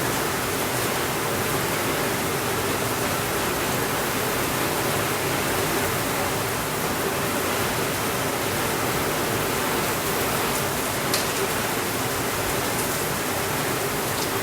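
Steady, even rainfall with a continuous hiss, and a couple of faint sharp ticks late on.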